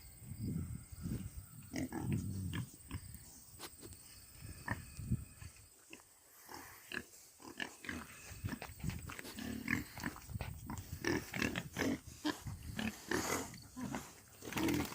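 Pigs grunting, in short irregular bursts, with a quieter spell about six seconds in.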